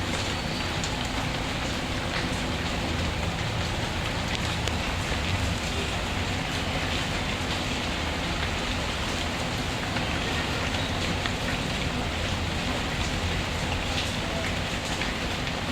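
Steady rain falling, an even, unbroken hiss of drops with scattered small ticks.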